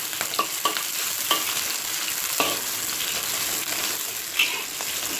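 Chilies, shallots and garlic sizzling in hot oil in a wok, with a steady hiss and a few sharp scrapes and taps of a metal spatula against the wok as they are stirred and half-fried.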